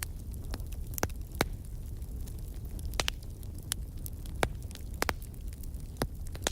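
Outdoor wood fire crackling: irregular sharp snaps and pops, some close together, over a steady low rumble.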